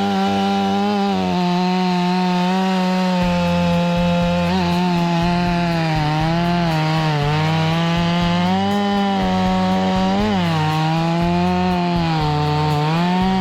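Chainsaw engine running at full throttle while cutting wood, its pitch dipping briefly several times as the chain takes load and then recovering.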